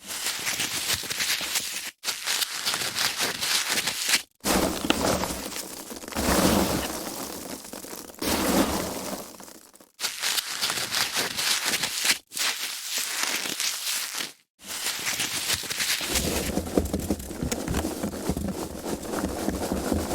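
Foam packaging being handled, a dense crinkling, creaking rustle in stretches of a few seconds separated by brief silent gaps, with heavier squeezing and crushing in two longer stretches.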